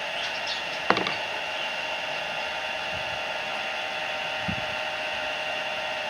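Steady mechanical whirring hum, with a sharp click about a second in and a few soft low knocks.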